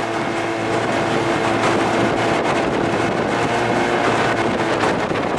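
Evinrude 25–30 hp two-stroke outboard running steadily at high speed, with wind noise and the small hull slapping over choppy water.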